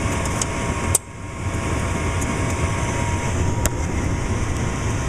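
Furnace blower running with a steady low hum. Two sharp clicks sound over it, one about a second in and one later. The hum drops away briefly after the first click, then comes back.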